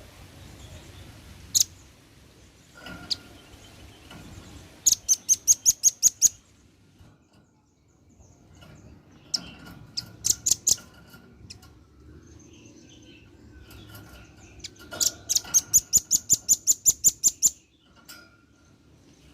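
Male velvet-fronted nuthatch calling: a few single sharp, high chips, then three bouts of rapid, high chattering trills of about eight notes a second, the last and longest lasting about two and a half seconds.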